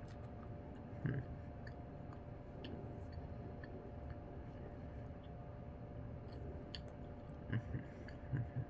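Faint chewing of a soft caramel cinnamon roll, with small wet mouth clicks, a few of them about a second in and near the end. A steady low background hum runs underneath.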